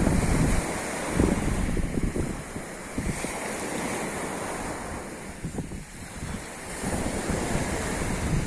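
Sea waves washing on the shore, with wind buffeting the microphone in uneven gusts.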